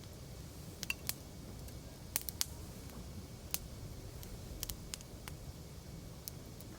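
Wood campfire crackling: irregular sharp pops and snaps, a few in quick succession around the middle, over a low steady rumble of the flames.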